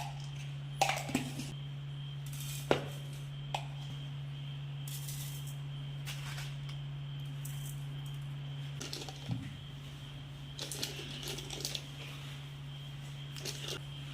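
Kitchen utensils and dishes clicking, knocking and clattering now and then, a few sharp knocks in the first few seconds and light clatter later, over a steady low hum.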